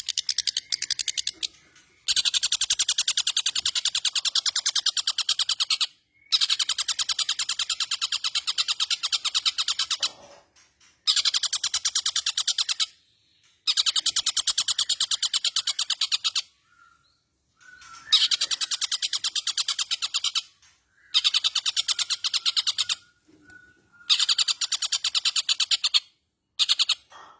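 Long-tailed shrike (cendet) singing in about eight loud bouts of very fast, rattling trills, each a few seconds long and separated by short pauses.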